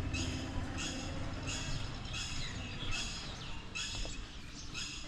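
A bird calling repeatedly: short, high chirps, roughly one every half to three-quarters of a second, over a faint low rumble.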